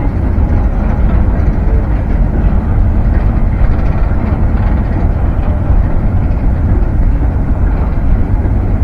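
A train running with a loud, steady rumble.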